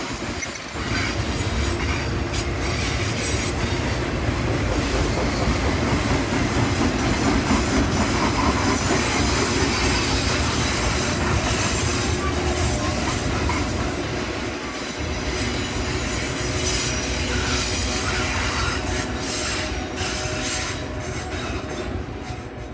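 Long freight train of autorack cars rolling past, steel wheels running on the rails. The noise dies down near the end as the last car goes by.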